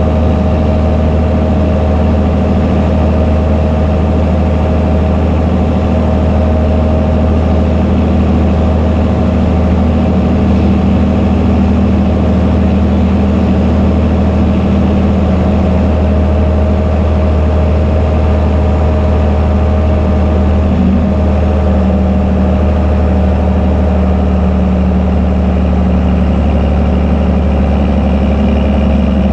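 Fendt Favorit 926 Vario tractor's six-cylinder diesel engine running steadily through an open exhaust pipe, a loud, deep drone with only slight changes in load.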